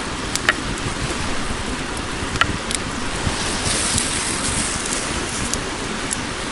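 Wood campfire burning with a steady hiss and sporadic sharp pops.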